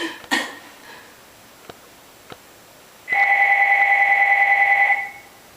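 A telephone ringing once: a single electronic trilling ring of about two seconds, starting about three seconds in. Before it the last guitar strum dies away and two faint clicks are heard.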